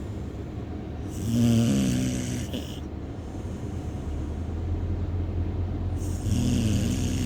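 A sleeping heeler dog snoring, two long snores about five seconds apart, over the steady low hum of a car on the road.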